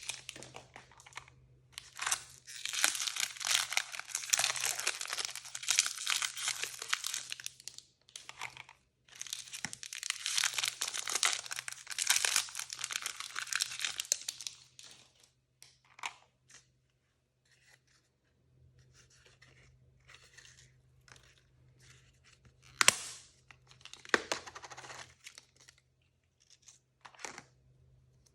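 Blind-bag packaging being torn open and crinkled by hand: two long stretches of tearing and rustling in the first half, then scattered short crinkles and a few sharp snaps.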